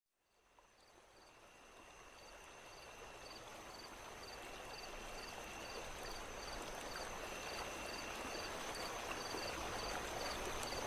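Nature ambience sound effect: insects chirping and trilling over a steady rushing background. It fades in over the first few seconds, with regular high chirps about twice a second over a steady high whine, and cuts off abruptly at the end.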